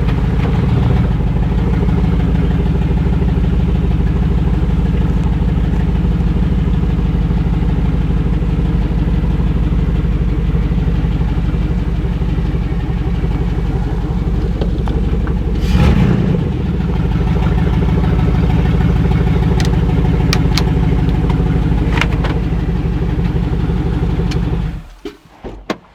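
Chevrolet 5.3 L LS4 V8, swapped into a Celica, running steadily at idle as the car moves under its own power for the first time after the swap, with a brief louder swell about two-thirds of the way through. The engine is switched off near the end and the sound cuts off suddenly.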